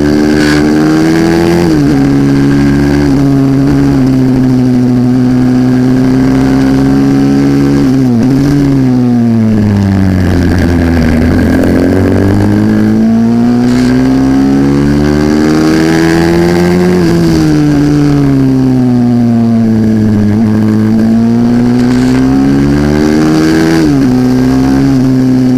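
A 140cc single-cylinder four-stroke minibike engine running hard: its pitch holds steady for several seconds, then the revs fall away and climb back twice, as when braking into corners and accelerating out.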